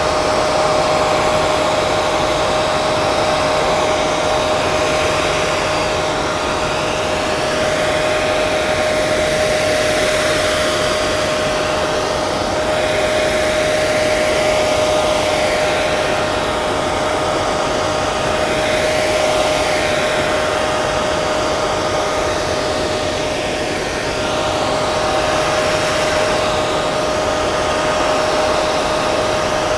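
Hair dryer running steadily: a continuous rush of air with a steady motor whine. The hiss slowly shifts in tone.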